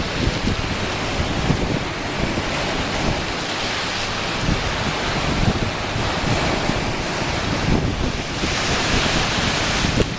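Ocean waves washing against shoreline rocks: a steady hiss of surf, with one wave's wash swelling louder near the end. Wind buffets the microphone in low rumbling gusts.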